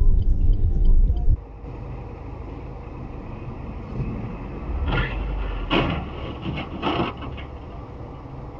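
Vehicle road and engine noise: a loud low rumble that cuts off abruptly about a second in, then quieter steady road noise broken by three short, sharp noisy sounds.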